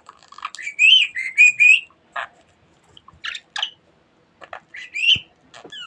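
Budgerigar warbling and chirping: a run of quick, wavering chirps in the first couple of seconds, then scattered short chirps and clicks.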